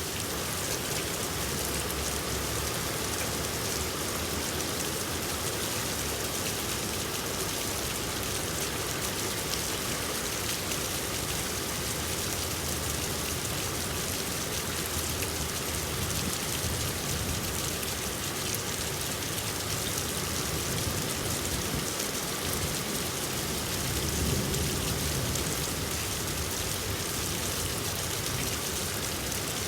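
Rain falling steadily, an even unbroken hiss of drops.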